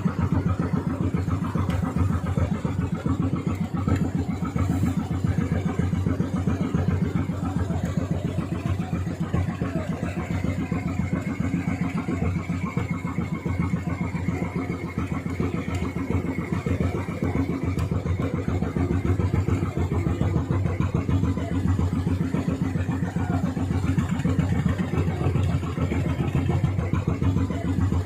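Fishing boat engine running steadily at full throttle, its rapid, even firing pulses heavy in the low end. A faint high whine comes in for several seconds midway.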